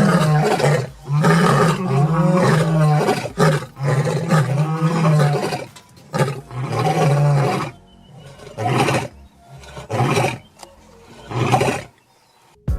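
A dog screaming loudly: long, wavering yells for the first several seconds, a slightly shorter one just after six seconds, then three brief yells about a second apart near the end.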